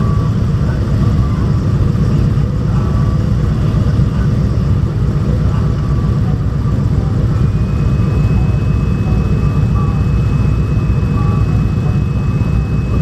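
Motorcycle engine running with a heavy low rumble. A steady high-pitched tone joins about seven and a half seconds in.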